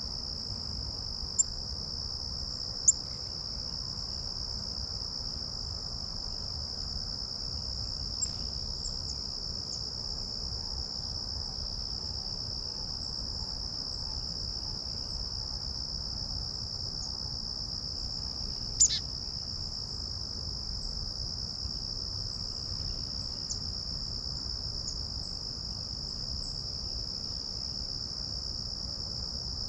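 Steady, high-pitched insect chorus trilling without a break, with a few brief, scattered bird chirps; the loudest chirp comes about two-thirds of the way through.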